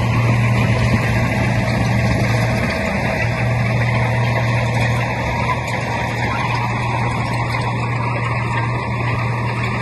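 Heavy diesel engine of earthmoving machinery running steadily, a low hum over mechanical noise, which eases briefly about three seconds in.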